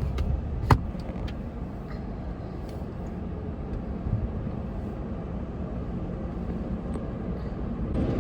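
Steady low rumble of a car at low speed, with a sharp click about three-quarters of a second in and a few fainter ticks.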